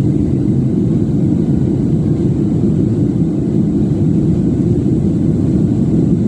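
Steady low rumble of a jet airliner's engines and airflow, heard from inside the passenger cabin after takeoff.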